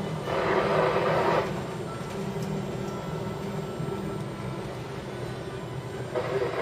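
Ship's engine and hull drone, steady and low, with two rushes of noise about a second long, one just after the start and one near the end, as seas wash against the ship in a storm.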